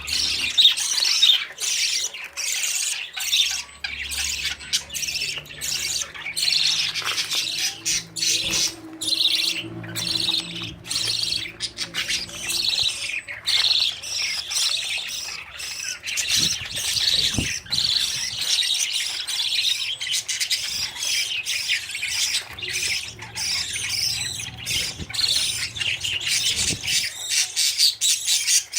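Budgerigars, adults and their fledglings, chattering and squawking without a break: a dense jumble of rapid, high-pitched calls.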